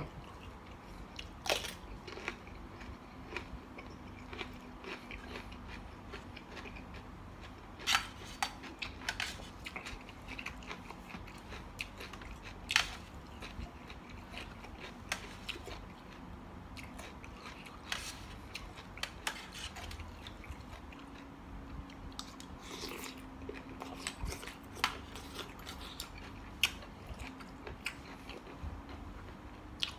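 A person biting and chewing spicy mixed seafood salad of squid and shrimp close to the microphone: irregular wet smacks and sharp crunchy clicks, a few louder ones scattered through.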